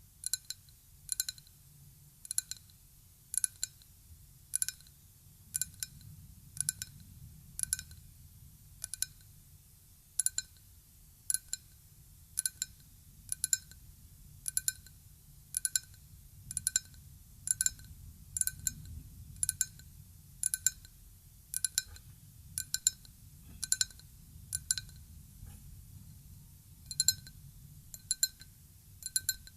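Ryukyu glass tapped lightly in a slow, steady series of clinks, about one a second, each giving a short, clear, bell-like ring. The tapping pauses briefly about two-thirds of the way in.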